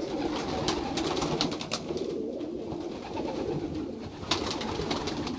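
A loft of young racing pigeons cooing together in a steady murmur, with scattered sharp clicks and taps among them.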